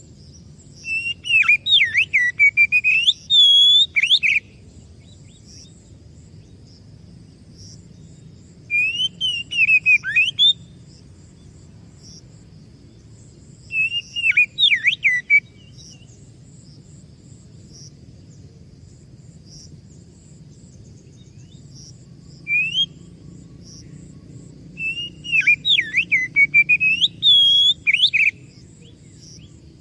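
Oriental magpie-robin (kacer) singing: five bursts of loud, rapidly varied whistled phrases with pauses of several seconds between them. Behind it runs a faint, evenly repeating high chirping and a low hum.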